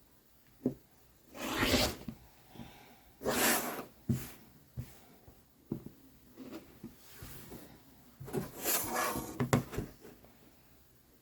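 Rotary cutter drawn through layered fabric on a cutting mat in three scratchy strokes, about a second in, near four seconds and again near nine seconds. Light clicks and knocks of the ruler and fabric being handled fall between the strokes. The blade is still due for changing.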